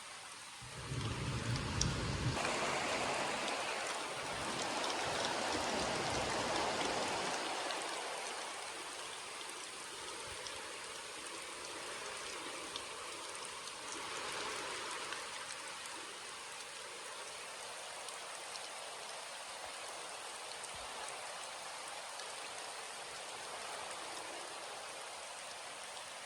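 Steady rain falling, heavier for the first several seconds and then settling to an even patter, with a brief low rumble about a second in.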